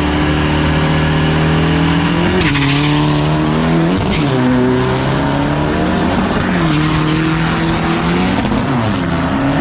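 Diesel drag-racing truck accelerating hard down the strip. Its engine note climbs and drops back sharply at each of about four gearshifts.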